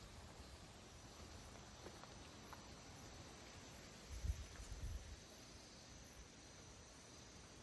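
Faint outdoor insect chirping: high, thin pulses repeating about twice a second over a steady faint high trill. A few soft low thumps come about four to five seconds in.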